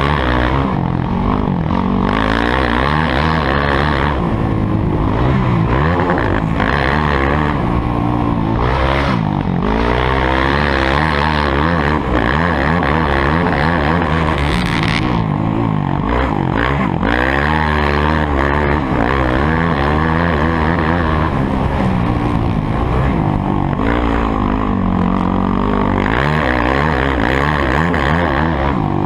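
Motocross bike engine running hard, its pitch rising and falling again and again as it revs up and backs off.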